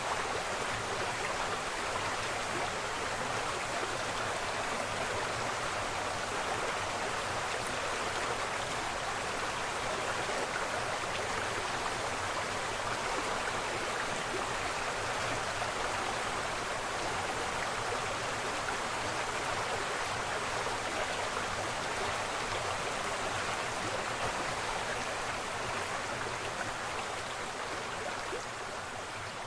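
Waterfall: a steady, even rush of falling water that eases slightly near the end.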